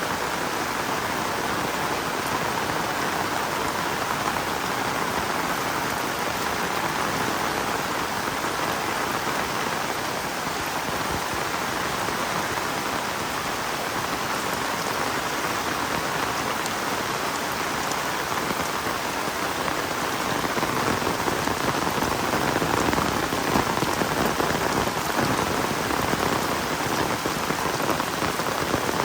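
Heavy rain falling steadily and pattering on surfaces, a little heavier in the last third.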